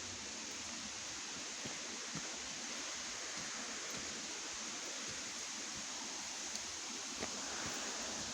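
Steady rushing hiss of Issaqueena Falls' water, with a few faint ticks.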